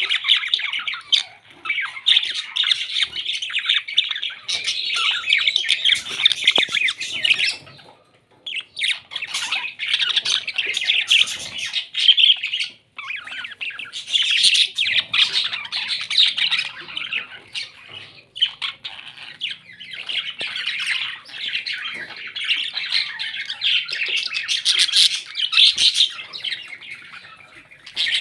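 Parrots chattering and squawking almost without pause, in quick, dense runs of calls, with short breaks about 8 and 13 seconds in.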